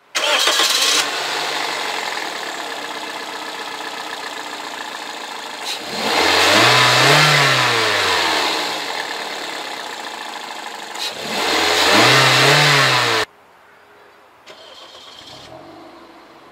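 Toyota Corolla's 1.6-litre 3ZZ-FE inline-four running, loudest in the first second and then steady. It is revved twice, the first rev rising and falling over about three seconds. The sound cuts off suddenly during the second rev, leaving only a faint sound.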